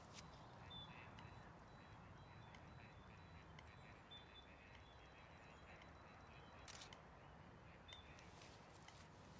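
Near silence with the shutter of a Canon 6D DSLR firing, one clear release about seven seconds in and a fainter click near the start. There are also a few faint short chirps.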